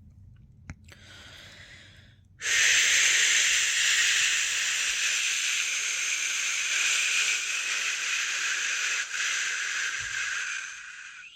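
A person shushing, a long steady 'shhh' held for about nine seconds after a shorter, softer one. This is the shush sound used to lull a newborn to sleep.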